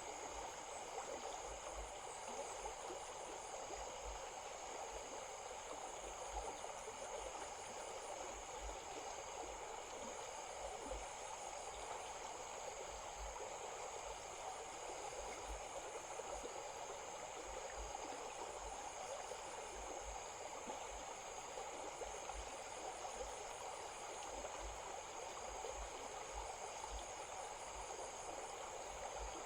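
Stream running steadily over stones, with a constant high-pitched drone and a faint pulsing trill above it, typical of evening insects.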